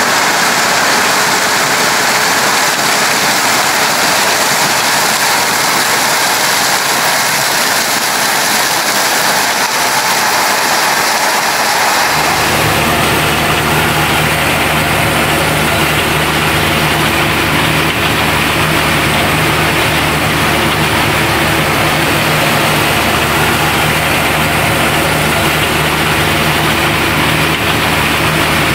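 Heavy farm machinery running steadily. About twelve seconds in, the sound changes abruptly to a deeper, steady engine drone with a low hum.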